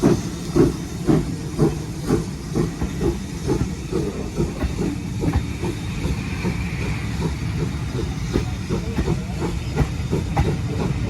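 Steam locomotive working past, its exhaust beating about twice a second with steam hiss; after about five seconds the beats fade into a steady rumble of the train running.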